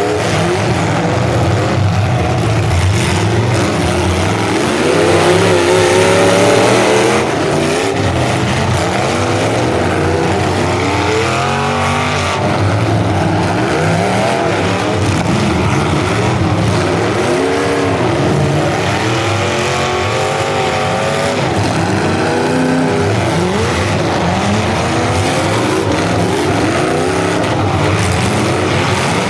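Engines of several full-size demolition derby cars running together, each revving up and down so the pitches rise and fall over one another, loudest about five to seven seconds in.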